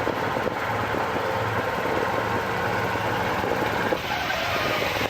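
Truck engine running steadily with a low hum, under a steady noisy wash of outdoor and wind noise.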